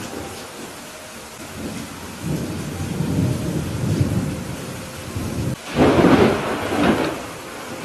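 Steady rain with thunder: a low rumble swells from about two seconds in, then breaks into a loud thunderclap about six seconds in, followed by a second peal about a second later.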